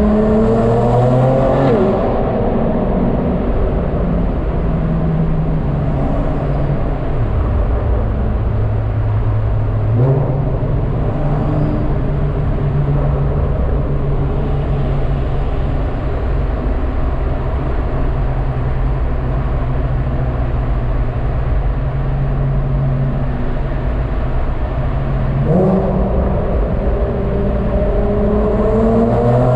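Car engine and exhaust while driving. The pitch rises under acceleration at the start, then settles into a steady drone with a step in pitch about ten seconds in, and rises again under acceleration near the end.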